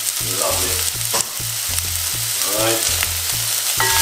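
Chopped onion and fresh garlic sizzling in hot olive oil in an aluminium pot, stirred with a wooden spoon, with a single knock about a second in.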